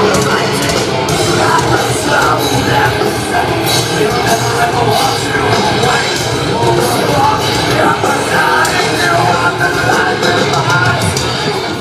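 A live heavy rock band playing loud, with distorted guitars, drums and cymbals, and a singer's voice over the music.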